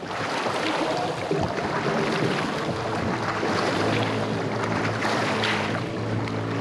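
Steady rushing noise of wind and water, with a low steady hum joining about four seconds in.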